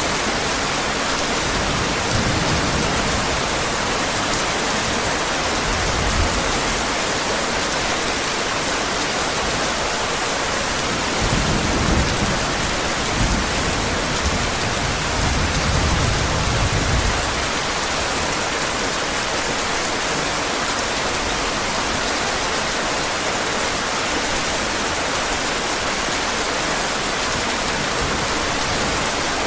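Heavy rain falling steadily, with low rolls of thunder: brief rumbles about two and six seconds in, and a longer, louder roll from about eleven to seventeen seconds in.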